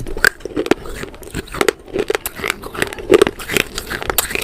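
A person biting and chewing something crunchy close to the microphone: an irregular run of sharp crunches and cracks, several a second, with wet mouth sounds between them.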